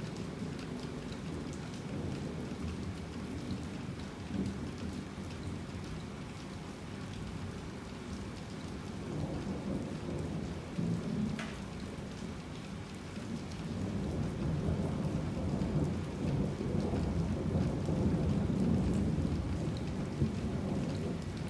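Heavy rain falling steadily, with thunder rumbling low underneath; the rumble swells midway and grows louder through the second half.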